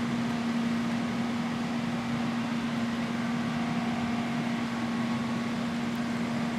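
Farm machinery running steadily during the oat harvest: an even mechanical drone with a constant low hum that holds one pitch throughout.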